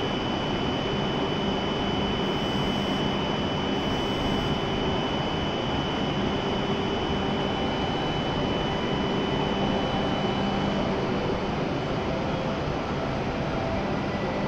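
Stationary W7-series Shinkansen idling at the platform: a steady rush of equipment and air-conditioning fans with a low hum and a thin high whine that fades about two-thirds of the way through.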